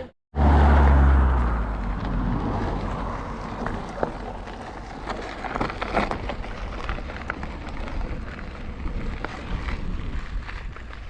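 Mountain bike riding along a trail: tyre noise with many small knocks and rattles, and wind buffeting the microphone, loudest for the first second or so.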